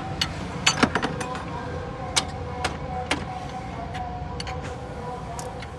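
Irregular sharp metallic clicks and taps, like hand tools and bolts being handled, over a steady low mechanical hum.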